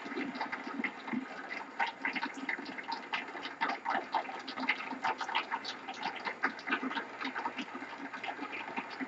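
Murmur and stir of a gathered crowd: a steady rustling hum broken by many small scattered clicks and knocks, with no clear words.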